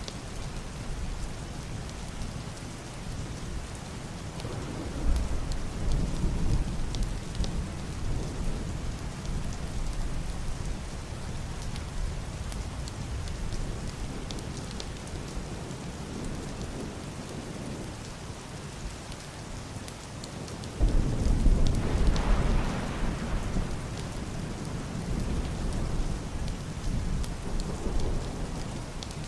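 Steady heavy rain on a roof and window glass, with deep, muffled thunder rolling twice: a rumble about five seconds in, and a louder one that breaks suddenly about two-thirds of the way through and fades over several seconds.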